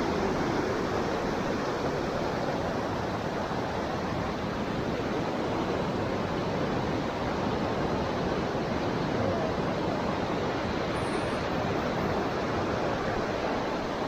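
Steady rushing of floodwater in a swollen creek.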